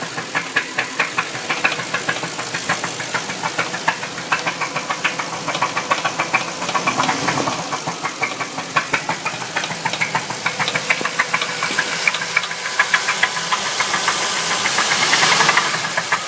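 A 4-litre V8 engine running with a rapid, regular ticking knock over its sound. Its level rises for a couple of seconds near the end, then drops back.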